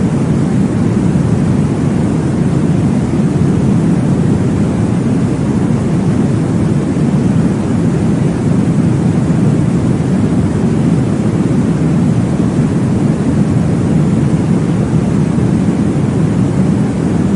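Steady, deep whooshing noise of a baby-soothing womb-sound track, meant to mimic blood flow heard in the uterus. It is heavy in the low range, with no clear heartbeat pulses standing out.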